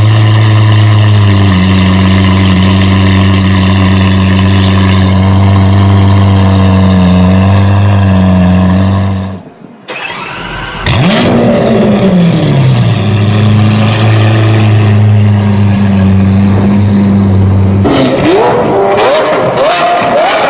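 Lamborghini supercar engine idling steadily, then shut off about halfway through. A second or so later it is started again, flaring up in revs and falling back to a steady idle. Near the end the revs climb, with a string of sharp cracks.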